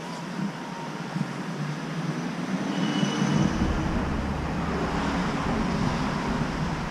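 Mini excavator's diesel engine running, with a deeper rumble coming in about three seconds in as it comes under more load.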